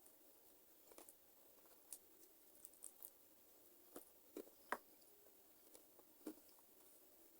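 Close-miked chewing of chicken feet: scattered quiet wet mouth clicks and smacks, with one sharper click a little under five seconds in.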